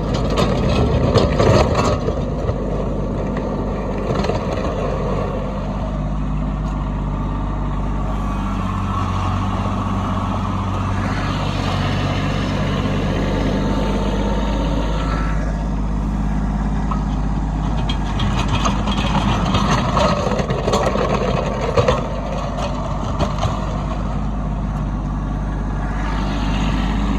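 Kubota B2601 compact tractor's three-cylinder diesel engine running steadily while plowing snow, with a rushing noise that swells up twice, near the start and again about two-thirds of the way through.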